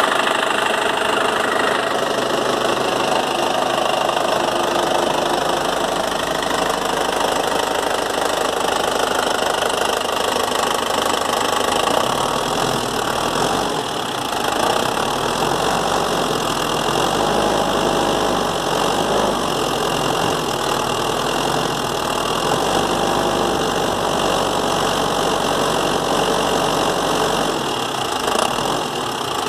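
Toyota 14B 3.7-litre four-cylinder diesel engine running steadily.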